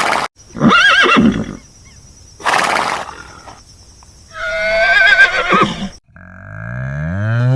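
A horse whinnying: loud, wavering high calls repeated several times, with short noisy bursts like snorts between them. About six seconds in there is a sudden change to a lower, long call that rises steadily in pitch.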